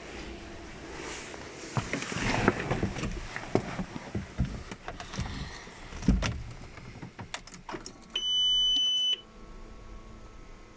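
Car keys jangling and clicking for several seconds, then a single loud high electronic beep lasting about a second, followed by a faint steady hum.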